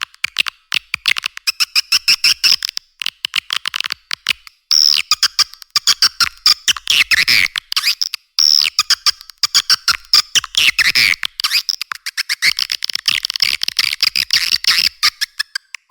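Swiftlet lure-call recording of edible-nest swiftlets: dense, rapid clicking and chattering chirps, with two longer trilled calls about five and eight seconds in. The sound is thin, with no low end at all.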